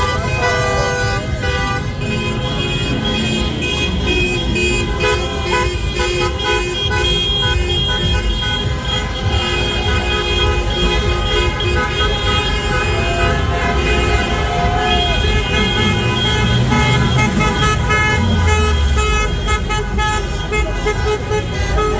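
Many car horns honking and held at once in slow road traffic, over a dense noise of engines and a crowd's voices.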